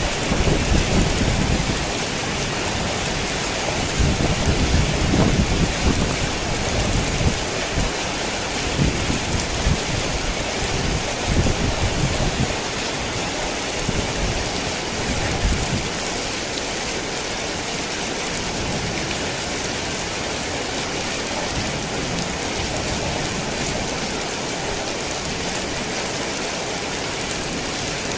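Heavy rain falling steadily, with thunder rumbling low and unevenly through the first half, dying away about sixteen seconds in.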